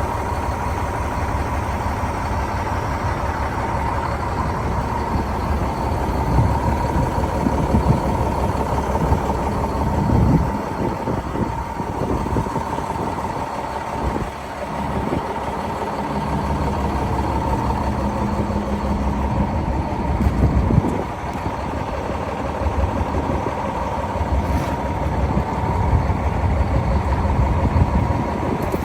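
Diesel engine of a 2007 International 7600 snow plow truck idling steadily, with a thin steady whine running over the engine's rumble.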